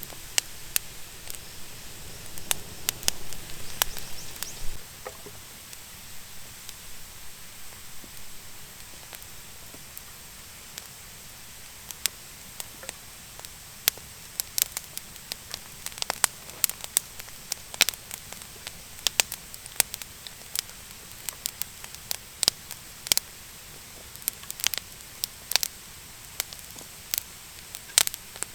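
Damp, thin wood catching and burning in a fire pit, crackling with irregular sharp pops over a low hiss. A louder rushing noise in the first few seconds drops away about four to five seconds in.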